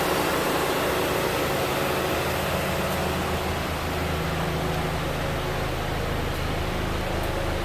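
2013 Dodge Dart's 2.0L four-cylinder engine running steadily at idle.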